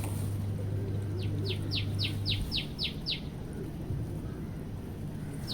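A songbird singing one rapid run of about eight short notes, each sliding down in pitch, about four a second.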